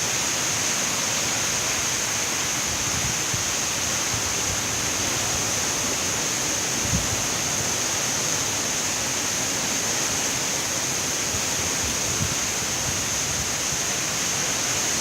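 Hurricane-force wind and rain making a steady rushing noise that does not let up, with a brief low thump about seven seconds in.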